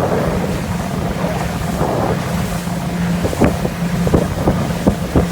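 Motorboat running steadily under way, a low engine hum with wind buffeting the microphone. From about three and a half seconds in, a handful of sharp knocks come as the hull slaps the chop.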